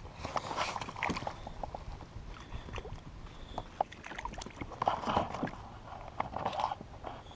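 Sharp clicks and knocks with a few short rustling, splashy bursts from handling on a kayak.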